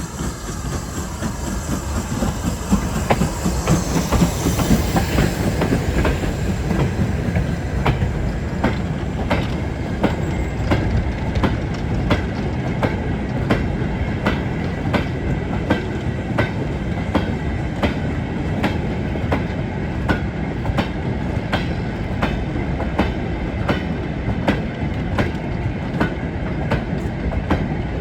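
Heritage railway train running on jointed track: a steady rumble with a regular clickety-clack of wheels striking the rail joints, roughly two clicks a second.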